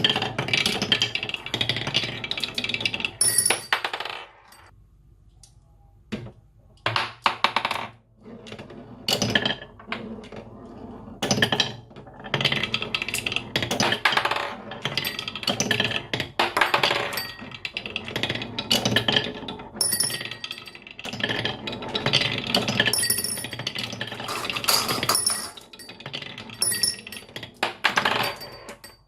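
Marbles rolling and clattering down a wooden HABA marble run, in dense bursts of clicks and rattles. There is a quieter gap about four seconds in, and then the clattering picks up again.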